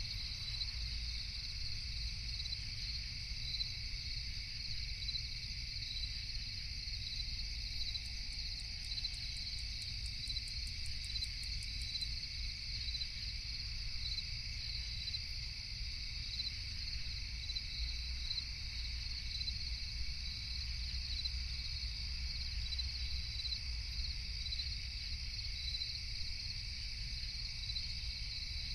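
Night chorus of crickets: a continuous high chirring that pulses quickly and evenly, over a steady low rumble. About a third of the way in, a faster, higher ticking joins for about four seconds.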